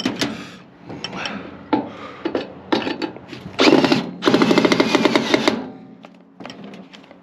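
Cordless drill/driver running in several short bursts as it works on the screws holding a microwave oven transformer, the longest burst about a second long a little past the middle.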